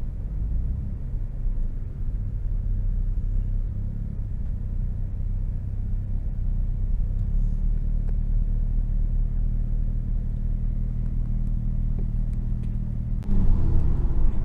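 Car engine running with a steady low rumble, then revving up suddenly about a second before the end.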